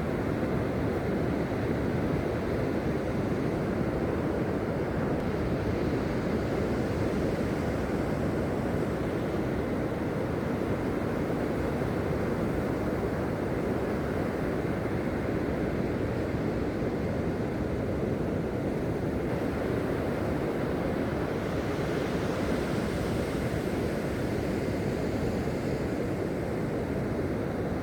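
Steady rushing of sea surf on a beach.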